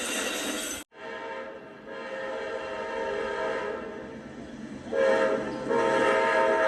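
Amtrak P42DC diesel locomotive's air horn sounding a chord, faintly at first, then a louder, longer blast about five seconds in with a brief break. Before that, train noise breaks off abruptly about a second in.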